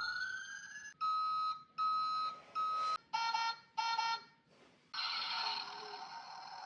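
Electronic sound effects: siren-like sliding tones fading out in the first second, then five short bursts of beeping, alarm-like tones, and from about five seconds in a steady buzzing electronic tone.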